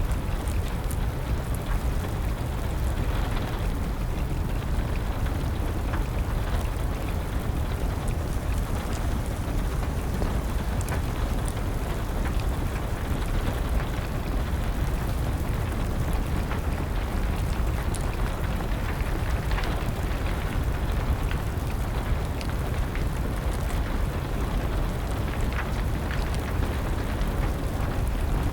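Steady rain with a deep low rumble, and scattered small crackles and pops of a burning wood fire, all continuous with no change.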